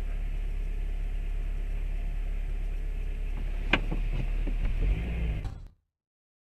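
Steady low rumble of a car driving, recorded by a dashcam, with a single sharp knock a little past halfway. The sound cuts off abruptly near the end.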